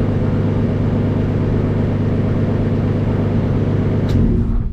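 Turbocharged BMW M50 inline-six running at a steady speed, then shut off: a click a little past four seconds in, and the engine stops near the end.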